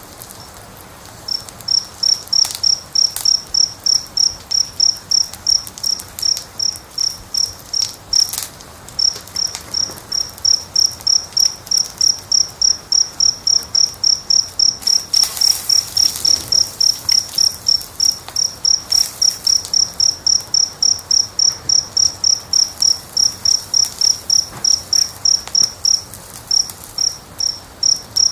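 A cricket chirping in a steady high-pitched pulse train, about three to four chirps a second, over the scattered pops and crackles of a wood fire.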